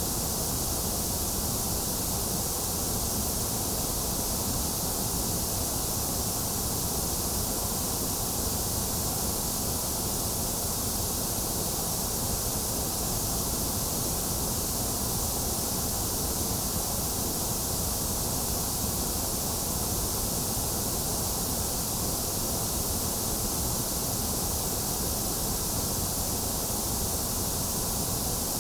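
Steady synthetic white noise: an even hiss with a low rush beneath it, unchanging throughout.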